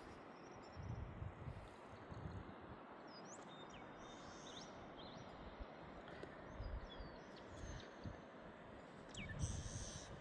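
Faint outdoor ambience: a steady hiss with a few short, high bird chirps scattered through it and occasional low rumbles.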